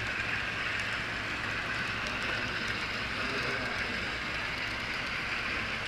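HO scale model train running along the layout's track: a steady whir of wheels and motor, with faint light clicks.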